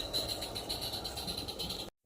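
Small live-steam garden railway locomotive running, a steady hiss with quick, even beats; the sound cuts off suddenly near the end.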